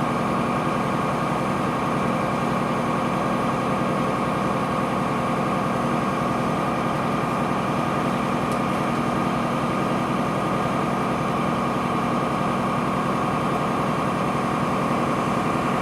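Cummins ISC inline-six diesel of a Blue Bird CS transit bus running steadily, heard inside the cabin: an even drone with a steady whine over it.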